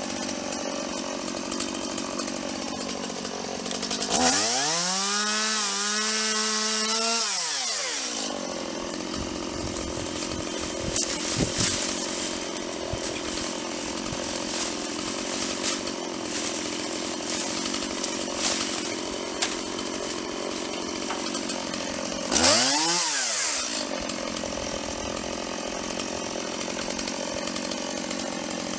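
Gas-powered saw engine idling, revved up hard for about four seconds starting about four seconds in, with its pitch wavering before dropping back to idle. It is briefly revved again near the end.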